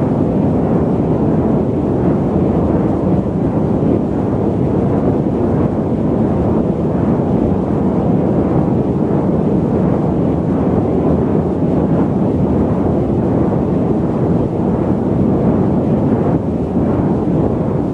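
Steady, low airliner cabin noise during cruise on a long-haul flight: a deep, even rumble of engines and airflow, with no changes or distinct events.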